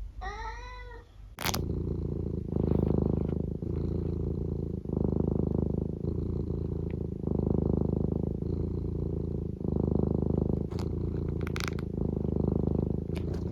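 Tabby cat giving one short meow that rises and falls in pitch, then purring steadily and close up, the purr swelling and easing with each breath about every two seconds.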